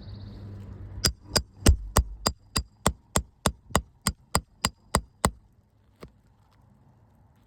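Roofing hammer striking a steel nail puller in a quick, even series of about fifteen sharp blows, roughly three a second, driving the puller under a shingle nail to pull it; one faint tap follows.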